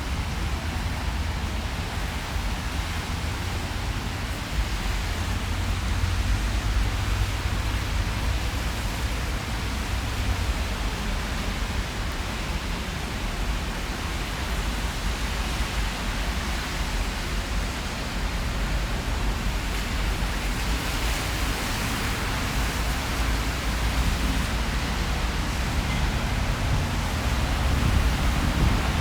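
Steady rain falling in a city street, an even hiss over a low rumble of traffic.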